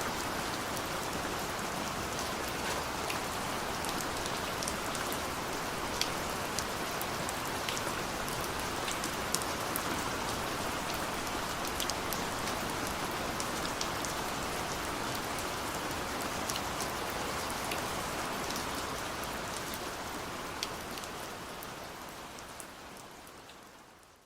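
Steady rain falling on a surface, an even hiss with scattered sharp drop ticks, fading out over the last few seconds.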